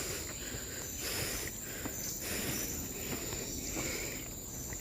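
Steady high-pitched buzz of forest insects, with soft footsteps on a dirt trail underneath.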